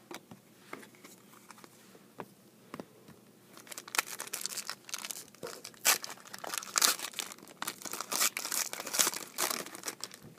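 A trading-card pack's foil wrapper being handled, torn open and crinkled. A few faint ticks come first, then dense, uneven crackling from about a third of the way in until near the end.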